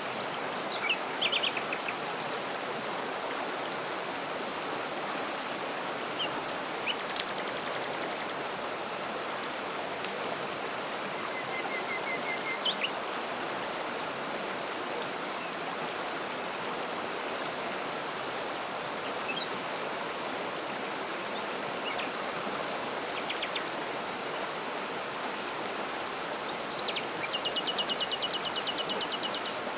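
Waterfall rushing steadily, with small birds calling now and then over it: short chirps and quick trills, and a longer, rapid high trill near the end.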